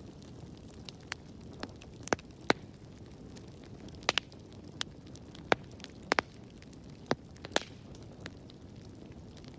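Wood fire burning in a fireplace: a low steady rumble of flames with irregular sharp crackles and pops, about a dozen in all, some coming in quick pairs.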